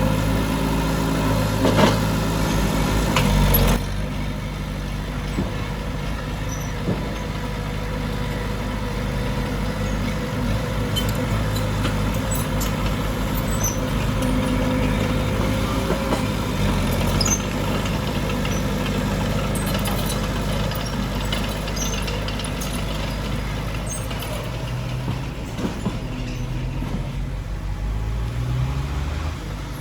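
Heavy diesel engine of earthmoving machinery running at work, louder for the first few seconds and then steadier, with scattered light clanks and the engine speed rising near the end.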